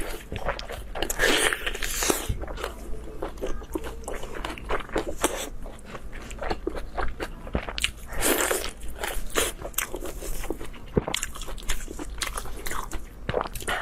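Close-miked mouth sounds of eating: biting and chewing, with frequent short wet clicks and crunches in an irregular run.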